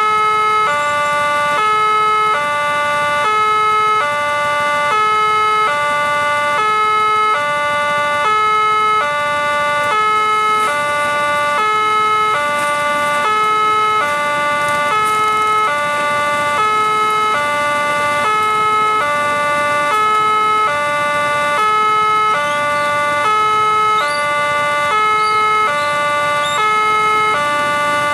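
Railway level-crossing warning alarm sounding its electronic two-tone signal: a low and a higher note alternate steadily, each held about half a second, warning that a train is approaching.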